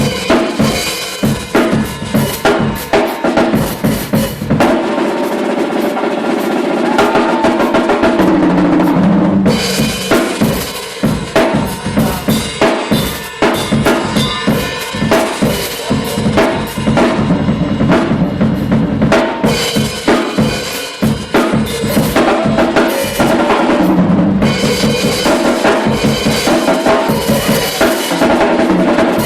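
Band music driven by a drum kit, with a steady beat of bass drum and snare and rimshots under sustained instrumental notes.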